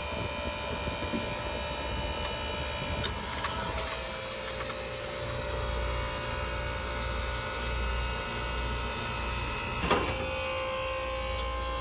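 Self-contained ice machine running: a steady hum with held tones from its compressor and condenser fan. A high hiss starts abruptly about three seconds in and stops with a sharp click near the end.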